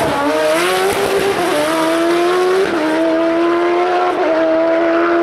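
Rally car engine running hard at high revs, its pitch dropping abruptly with gear changes about one and a half and nearly three seconds in, then holding fairly steady.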